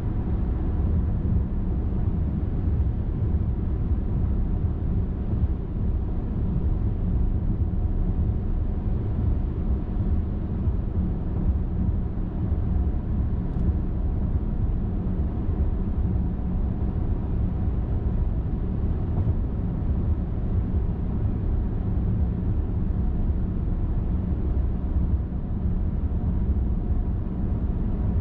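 Steady low rumble of a car driving at constant highway speed: tyre and engine noise, even throughout.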